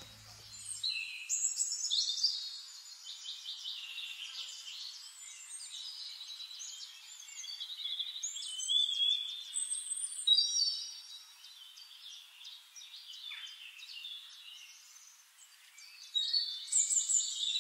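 Small songbirds singing: a busy run of overlapping high chirps, trills and twitters, loudest about two seconds in, around ten seconds in and near the end.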